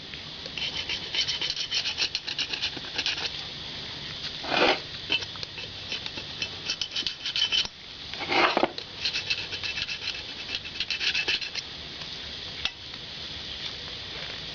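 Hand scraper scraping a paint-stripper-softened old gasket off a Harley Sportster Evolution engine's gasket face. It comes in bouts of rapid scratchy strokes, with two louder, longer scrapes about a third and two-thirds of the way through.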